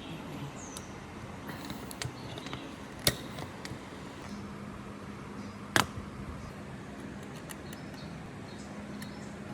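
Two sharp knocks about three seconds apart, with a few faint ticks, over a steady hiss. A faint steady hum comes in about halfway through.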